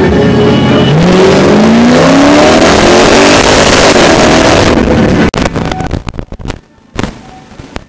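Lexus LS400's 4.0-litre V8 revving up hard as the stockcar pulls away, its pitch climbing over a couple of seconds, loud through the in-car camera. About five seconds in the engine sound drops away abruptly, leaving faint knocks and rattles.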